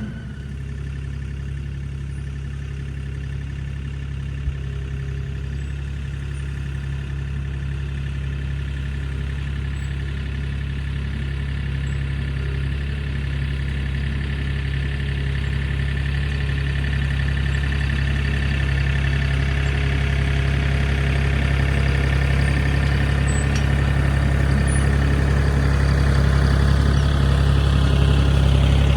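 Tractor diesel engine running steadily while pulling a two-row corn planter, gradually getting louder.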